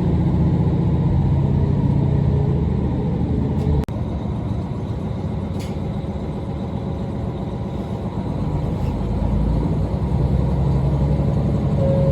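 Diesel railcar running, a steady low engine and running hum, with a sudden break about four seconds in.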